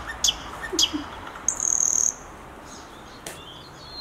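Small birds chirping: a few short, sharp high chirps and one longer high whistle about one and a half seconds in.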